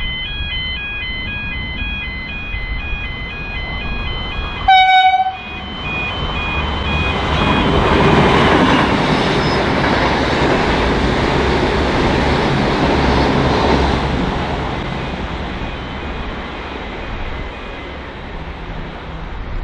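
An electronic alarm beeps in alternating tones, then a V/Line VLocity diesel railcar gives one short horn toot about five seconds in. The train then passes at speed, its rumble and wheel noise swelling and then fading.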